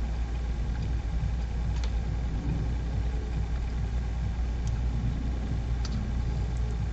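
A steady low machine hum with a few faint, short clicks.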